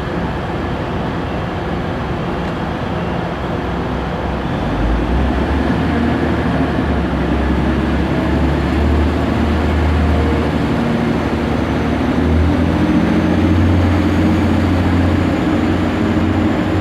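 Passenger train at a station platform: a steady low drone that grows louder about five seconds in and again near twelve seconds.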